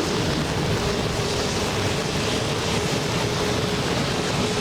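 Storm wind and rain rushing steadily over the microphone, with a faint steady hum underneath.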